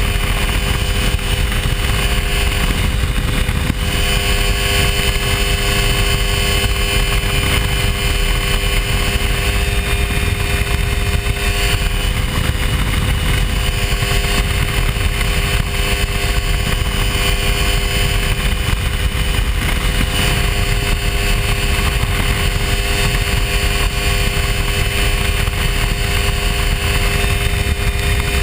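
Hy-Tek Hurricane ultralight airplane's engine and propeller running steadily in flight: an unbroken drone with a strong low rumble under it.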